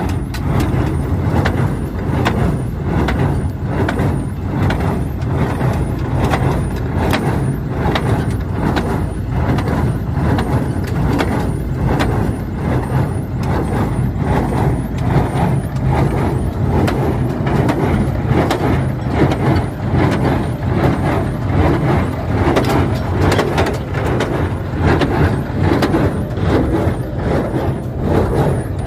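Claas Markant small square baler running behind a tractor: a steady engine hum with a regular, repeating knock from the baler's working strokes.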